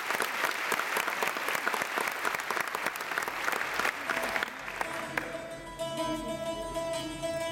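Audience applauding, dying away about four and a half seconds in, as the music for a Scottish dance medley begins quietly about a second later.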